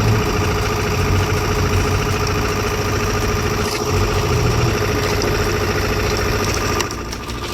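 Engine of a heavy wood-processing machine running steadily at constant speed, with a low hum. The sound drops abruptly about seven seconds in.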